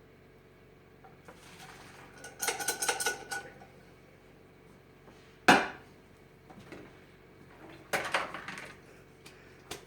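A metal cooking pot and colander clattering as cooked macaroni is tipped into the colander to drain: a run of metallic clanks with a brief ringing tone, a single sharp bang about five and a half seconds in, and another short clatter near the end.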